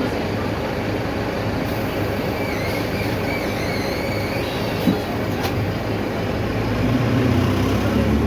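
Mercedes-Benz OF-1519 city bus under way: steady diesel engine and road rumble. A single knock comes about five seconds in, and the low engine sound grows louder near the end.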